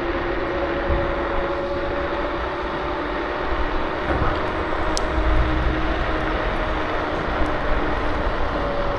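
KuKirin G2 electric scooter ridden at a steady speed: a steady motor whine in two pitches over wind and road rumble.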